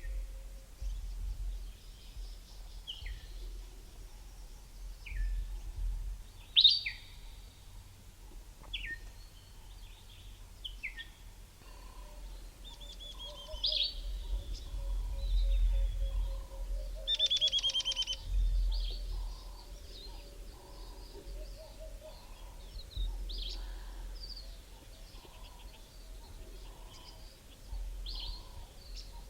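Several wild birds calling in valley bushveld: short falling whistles, a brief rapid trill about two thirds of the way in, and, through the second half, a lower note repeated about once a second. A low rumble runs underneath.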